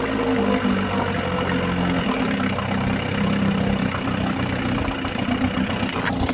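1953 Elgin 7.5 hp two-stroke outboard motor running steadily.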